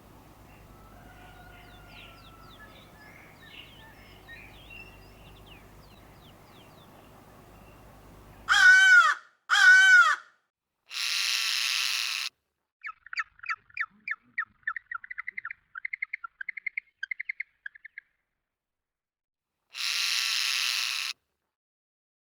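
Faint birdsong over a low background hum, which cuts off abruptly about nine seconds in; then loud, clear bird calls: two arching calls a second apart, a harsh rasping call, a rapid chattering run of short notes lasting about five seconds, and a second harsh rasping call near the end.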